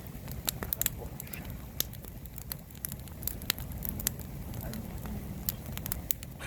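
Wood fire crackling with frequent, irregular sharp pops, over a steady low rumble.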